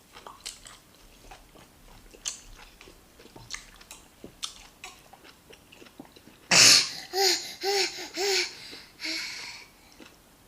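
Quiet chewing and mouth clicks of people eating rice and stew, then about six and a half seconds in a loud sudden breathy outburst from a young child's voice, followed by three quick pitched voice sounds.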